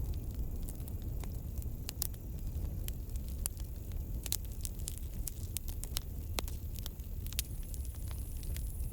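Campfire crackling: irregular sharp pops and snaps of burning wood, several a second, over the steady low rumble of the flames.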